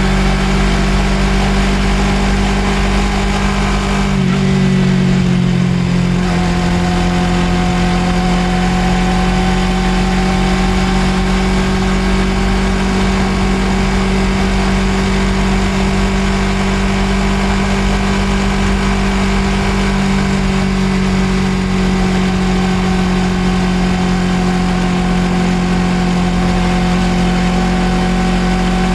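Suzuki GSX250R parallel-twin engine running steadily at cruising speed, heard from on board the motorcycle. The engine note briefly changes about four seconds in, then holds an even pitch.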